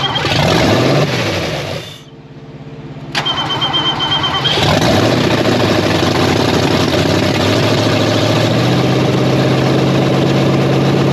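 A Fox-body Ford Mustang V8 on its first start after assembly. It runs briefly and dies about two seconds in, is cranked again with a high starter whine, and catches about four seconds in. It then runs steadily at a high, uneven idle, which the owner puts down to an unadjusted distributor and a missing MAP sensor.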